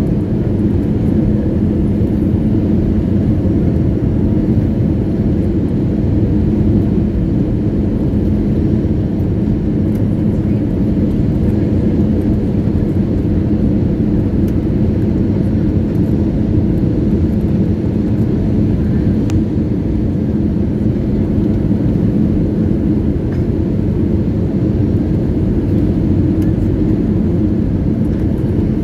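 Airliner cabin noise: a steady low rumble of the jet engines and airflow with a constant hum, unchanging throughout.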